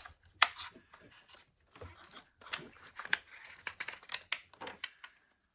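A scattered run of small, sharp clicks and taps from parts and a tool being handled while a steering arm is fitted to an RC truck's front-end steering.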